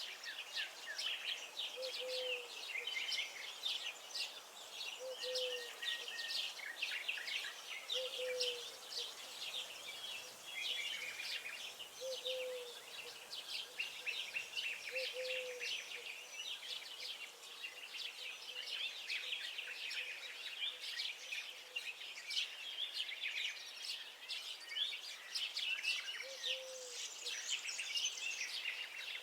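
Many small birds chirping and singing at once in a dense, continuous chorus of quick high notes, with a short low note from another bird recurring every couple of seconds.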